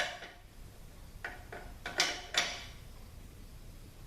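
Metal clinks and knocks of snap-ring pliers working at a retaining clip inside a THM-350 transmission: a handful of sharp taps with brief ringing, loudest at the start and about two seconds in.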